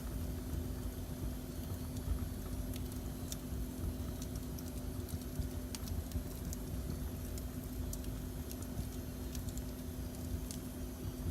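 Wood fire burning in a fireplace, crackling with scattered, irregular sharp pops over a steady low rumble and a faint hum.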